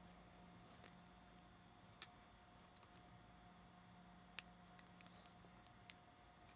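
Near silence broken by a few faint, sharp clicks of small parts being handled: a ribbon cable being worked into its connector on the camera's LCD driver board. One click comes about two seconds in, a louder one a little past the middle, and a quick cluster of four near the end.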